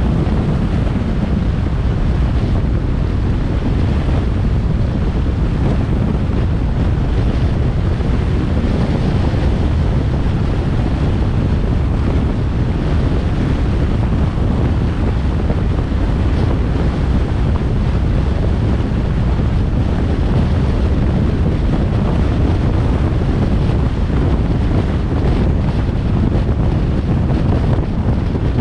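Steady low wind rumble on the microphone of a moving car, mixed with road noise, with no change in level.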